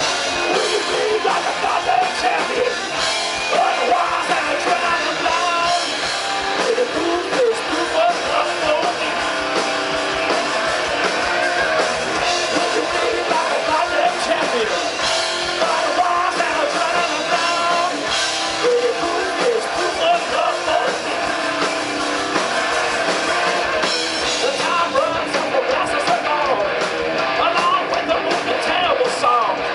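A rock band playing live, with a singer's voice over the band.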